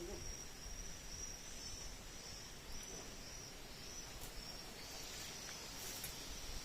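Strong wind rumbling on the microphone, with a steady high-pitched insect trill underneath.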